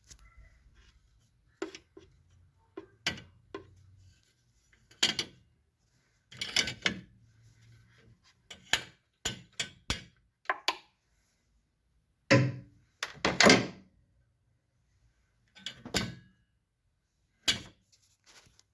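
Irregular metallic clanks, knocks and short scrapes of hand tools working on an alternator mounting bolt in a car engine bay, as the bolt is loosened. The loudest cluster of knocks comes a little after halfway.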